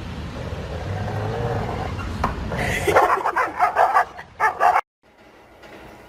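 A dog barking in a quick run of about five short barks, after a few seconds of low rumbling noise; the sound cuts off suddenly near the end.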